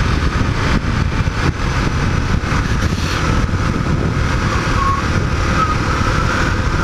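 Suzuki DR650 dual-sport motorcycle ridden at road speed: a steady engine note under heavy wind rush on the rider's microphone.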